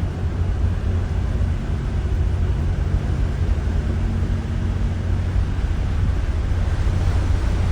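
Steady low rumble with a faint steady hum underneath: ambient noise on the deck of a large cruise ship.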